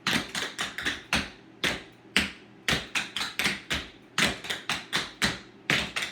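Metal tap shoes striking a hard floor in a quick, uneven run of sharp taps, some in fast clusters, as tap dancers work through maxi (Maxie Ford) steps.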